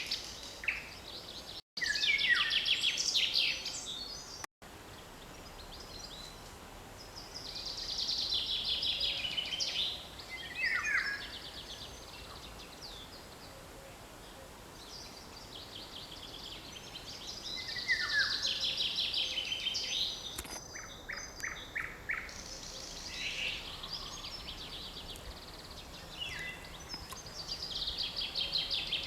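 Forest songbirds singing: repeated phrases of about two to four seconds, each a fast trill that drops in pitch toward the end, recurring every several seconds, with other birds chipping in between. The sound cuts out completely twice, very briefly, near the start.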